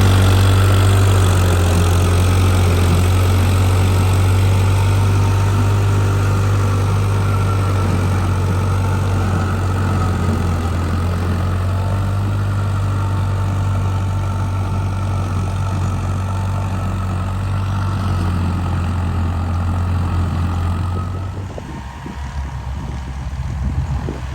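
Yanmar 725 tractor's diesel engine running steadily with a strong low drone. About 21 seconds in it drops and becomes quieter.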